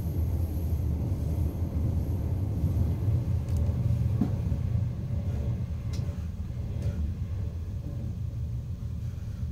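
Steady low rumble inside a China Railway CR200J Fuxing push-pull coach running along the line, with a few faint clicks in the middle.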